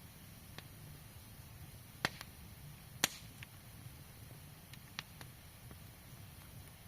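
Campfire burning with occasional sharp wood pops at irregular intervals, about six in all, the loudest near the middle, over a faint steady low background noise.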